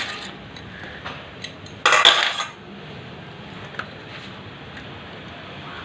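Metal hand tools and small engine parts clinking during work on a motorcycle engine's top end: scattered light clicks, with a louder metallic clatter lasting about half a second about two seconds in.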